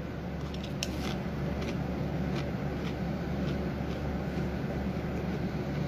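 A Pringles potato crisp being chewed: a few faint, sharp crunches over the first three seconds, over a steady low background hum.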